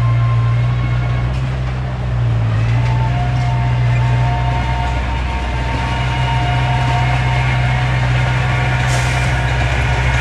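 Heavy earth-moving machinery with its diesel engine running steadily: a loud low drone with a high whine above it that changes pitch about three seconds in, and a short hiss near the end.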